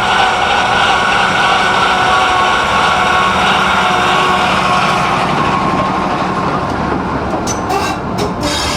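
Rail vehicle running on a rack railway, a loud, steady engine drone with a high whine. A few sharp clicks come near the end.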